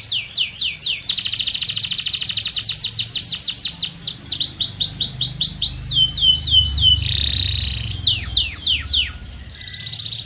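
Domestic canary singing: rows of rapid, repeated downward-sweeping whistled notes, with a very fast trill about a second in and the phrase changing every second or two. A buzzy, rattling phrase comes near the end before the song eases off.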